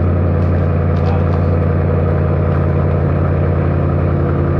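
Husky plug-in tire inflator running steadily, its small compressor pumping air into a truck tyre.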